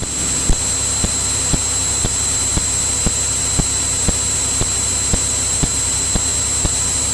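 Steady cockpit noise of a Cirrus single-engine airplane's engine and propeller in flight, with a thin, high, constant whine and a regular tick about twice a second.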